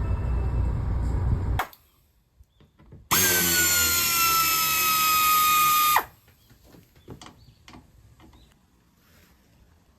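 A low rumble cuts off about a second and a half in. Then a small electric power tool motor whirs for about three seconds, its pitch sagging slowly as if under load, and stops suddenly. Faint clicks and taps follow.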